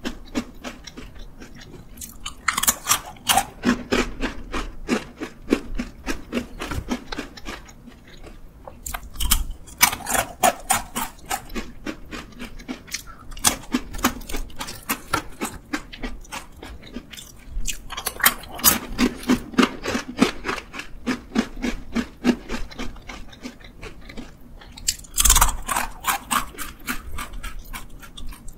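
Close-up crunching and chewing of Matdongsan, a peanut-studded fried dough snack, in rapid, continuous chews with a few louder crunchy stretches. Now and then a hand rustles in the foil-lined snack bag.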